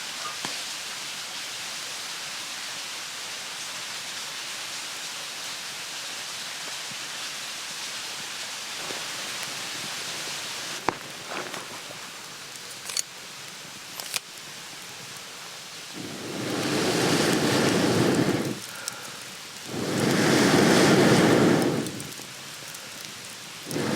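Long breaths blown through a fire-blowing pipe into a campfire, two blasts of rushing air and fanned flame of about two seconds each in the second half, with a third starting at the end. Before them a steady hiss with a few sharp crackles.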